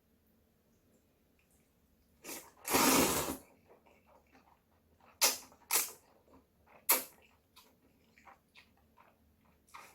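Bibim noodles slurped once, a loud hiss under a second long about three seconds in, followed by a few sharp clicks and smaller smacks of eating.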